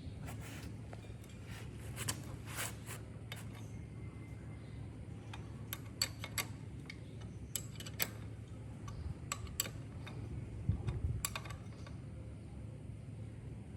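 Scattered light clicks and taps, about a dozen at uneven intervals, over a steady low hum.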